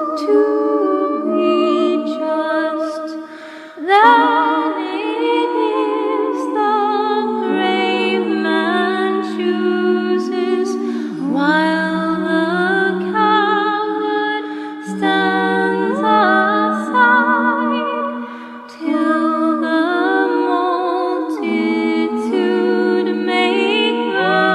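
A cappella choir singing a hymn in several vocal parts, voices moving together in chords with vibrato. The singing dips briefly between phrases about three and a half seconds in and again near the end of the third quarter.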